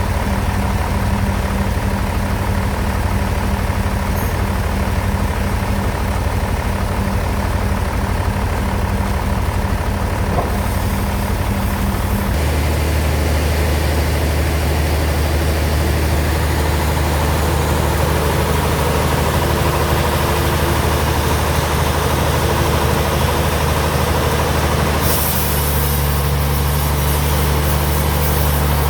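Sawmill bandsaw machinery running with a steady, loud low hum. The hum's note shifts about twelve seconds in and again a few seconds before the end, where a high hiss joins it.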